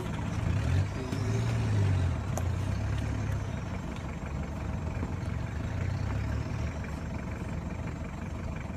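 Off-road 4x4 diesel engine running at low revs, heavier for the first two or three seconds, then a steady lower rumble.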